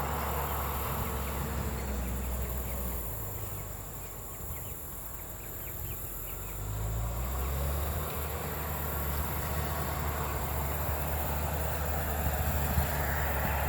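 Bulldozer's diesel engine running steadily as a low rumble, easing off for a few seconds in the middle and then coming back up. Faint short chirps sound above it during the lull.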